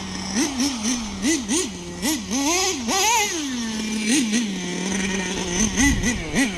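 AE Pro .21 nitro two-stroke engine of a Team Associated mini MGT 3.0 RC monster truck, idling and blipped again and again in short bursts of throttle, with a steady idle for about a second in the middle.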